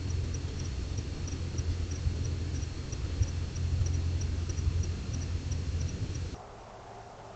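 High-pitched chirping from a small creature, short calls repeated about three or four times a second, some in pairs, over a loud low rumble. Both cut off abruptly about six seconds in, leaving a quieter background.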